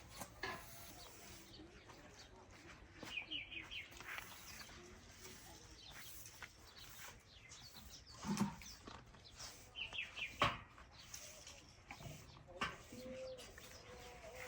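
Wild birds chirping, with two short runs of quick high chirps about three seconds in and again near ten seconds. A couple of brief knocks are the loudest sounds, about eight and ten and a half seconds in.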